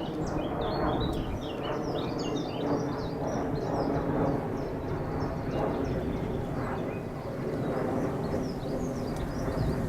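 Diesel locomotive engine running steadily, a low rumble, with birds singing many short chirps over it.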